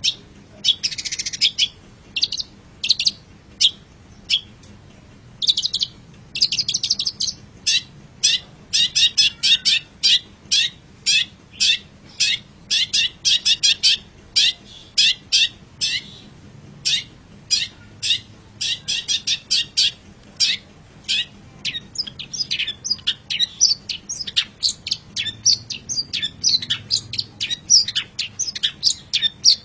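Long-tailed shrike (cendet) singing: a long run of short, sharp, high-pitched chips and chatter, several notes a second. The notes come more sparsely at first, then in a fast, dense chatter from about eight seconds in.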